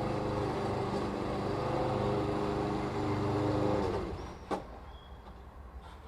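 Lawn mower engine running steadily, then shut off about four seconds in, its pitch falling as it winds down. A single sharp click follows, then only faint ticks.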